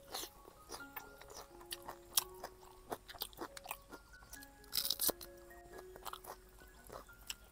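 Close-miked chewing and crunching as a person eats rice and curry by hand, with many small mouth clicks and a louder crunch about five seconds in. Soft background music with a gentle stepped melody plays underneath.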